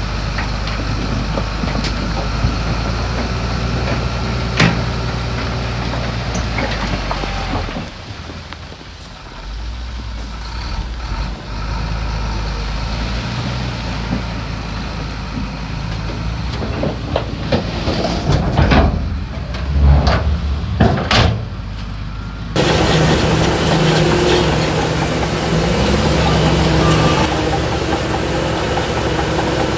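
Diesel engines of heavy earthmoving machinery, a crawler bulldozer and dump trucks, running steadily, with loud clanks and hisses a little past the middle. The sound changes abruptly about three-quarters of the way through.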